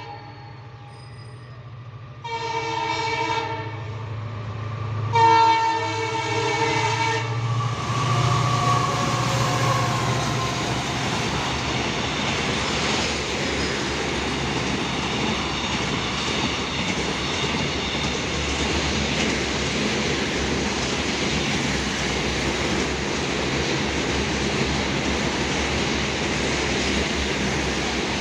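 Freight locomotive hauling a car-carrier rake sounds its horn three times as it approaches: a short toot, then two longer blasts, the last the loudest. It then passes with a falling pitch, and the long train of enclosed car-carrier wagons rolls by with a steady rumble and clatter of wheels on the rails.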